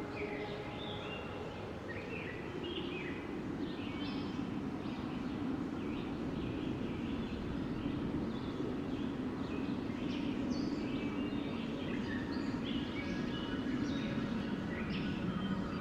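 Wind blowing steadily in a low rush that swells slowly, with many small birds chirping over it.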